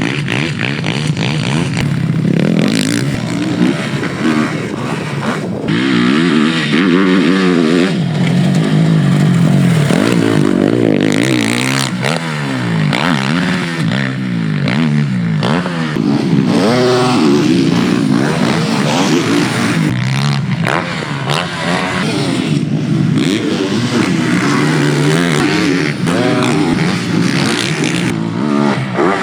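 Yamaha YZ450F motocross bike's single-cylinder four-stroke engine being ridden hard. The engine pitch rises and falls over and over as the rider opens and closes the throttle.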